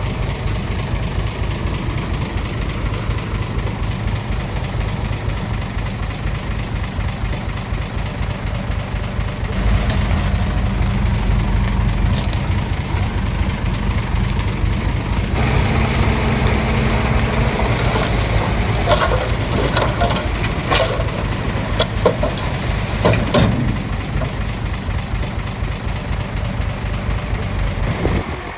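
Heavy diesel construction machinery running steadily, louder from about a third of the way in, with a run of sharp metallic clanks and knocks about two-thirds of the way through.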